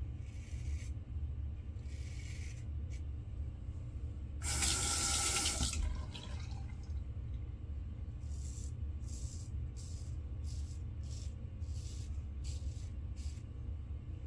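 Bathroom sink tap running for about a second and a half, followed by a run of short water splashes, over a steady low hum.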